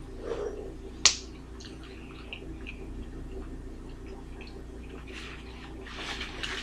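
Eating sounds from people chewing burgers: faint wet smacks and mouth clicks, with one sharp click about a second in, over a steady low hum.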